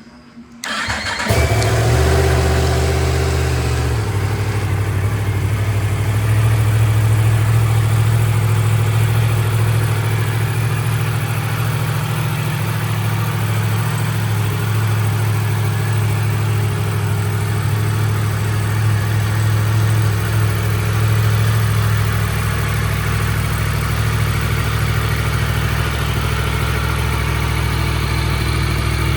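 Yamaha MT-10 SP's crossplane inline-four engine starting about a second in, running briefly at a slightly faster idle, then settling a few seconds later into a steady idle.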